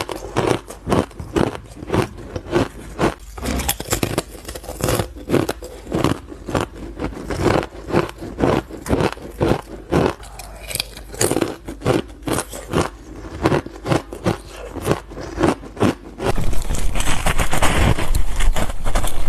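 Close-miked chewing of frozen ice and powdery frost: a rapid run of crisp crunches, about two to three a second. About sixteen seconds in, a louder, continuous crunching crackle takes over.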